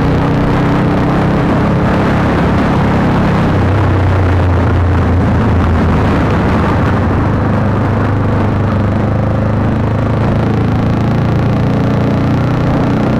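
Honda CBR150R's single-cylinder engine running through an aftermarket Akrapovic exhaust while the bike is ridden, its note shifting in pitch as the revs change, with constant rushing noise from wind and road.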